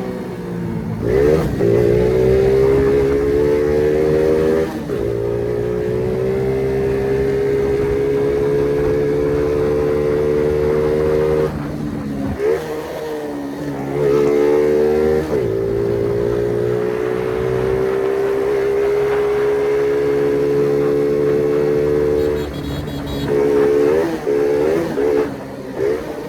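Small 50cc moped engine under hard throttle, its pitch climbing slowly in two long pulls, with the throttle closing and a few quick revs between them and again near the end.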